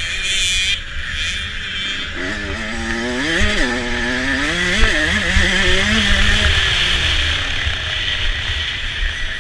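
Motocross dirt bike engine revving hard during a race, its pitch rising and falling several times as the rider works the throttle through the track, under a steady rushing noise.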